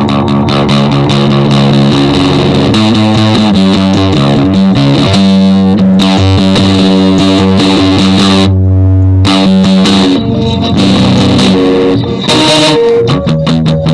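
Instrumental music led by distorted electric guitar over bass, held chords and notes changing every second or two.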